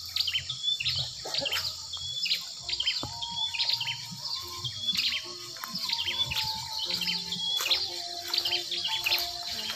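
Birds chirping over and over, in short calls that drop quickly in pitch, against a steady high hiss.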